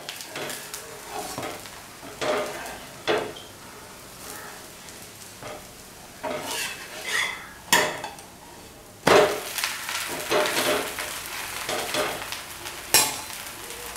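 Adai batter sizzling on a hot dosa griddle, with a metal spatula scraping under it in short strokes as it is loosened and turned over. The sizzle grows louder after a sharp scrape about nine seconds in.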